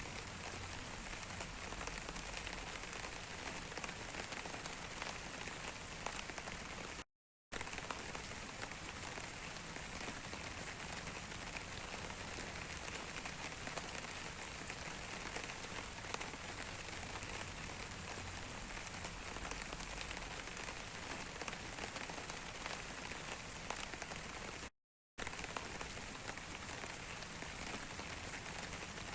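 Steady rain falling on a surface, a dense patter of fine drop ticks. It cuts to silence twice for a split second, about seven seconds in and near the end.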